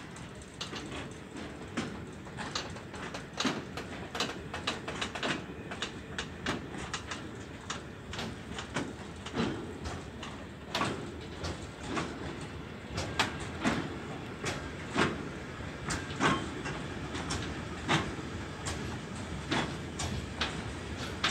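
Freight train of flat wagons loaded with rails rolling past, the locomotive already gone. Steady wheel-on-rail rumble with sharp, irregular clacks as the wheels cross rail joints, a few of them per second.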